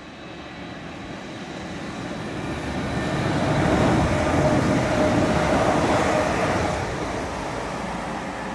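Multiple-unit passenger train passing under the bridge: the rumble of wheels on rail builds to a peak about four seconds in, with a steady whine over it, then fades as the train draws away.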